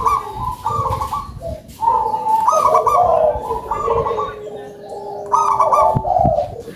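Local perkutut (zebra doves) cooing: several overlapping phrases of their rolling, stepped coos, repeated with short pauses between, and faint high chirps of small birds behind them.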